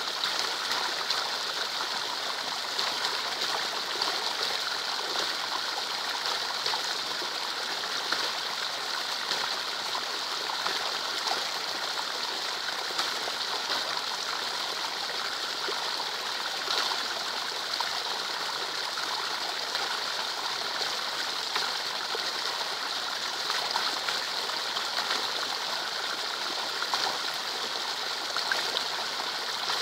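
Heavy rain falling steadily onto a puddle: a dense, even hiss of drops splashing on water, with scattered louder splashes.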